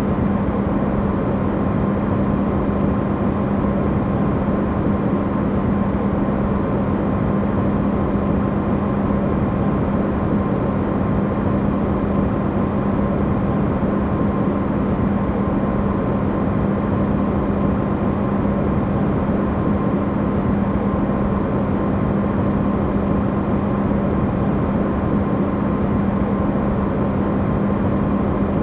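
Amplified hum of a side-by-side refrigerator running: a steady, unchanging drone with a strong low tone and a fainter higher one over a rushing noise.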